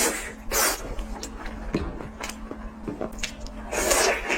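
Close-miked ASMR eating sounds: biting and chewing in irregular bursts, with small wet mouth clicks between them.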